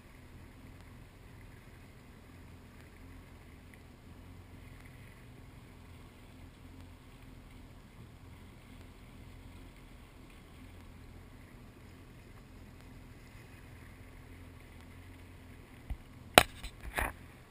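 A watercraft engine hums low and steady. Near the end come a few sharp knocks close to the microphone.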